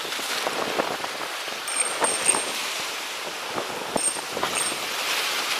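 Strong wind blowing, a steady hiss with scattered small crackles and clicks. Short faint high peeps come twice, about two and four seconds in.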